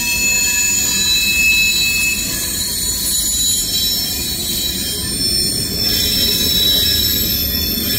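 Freight train's covered hoppers and tank cars rolling past, wheels rumbling on the rails with several steady high-pitched squeals from the wheels.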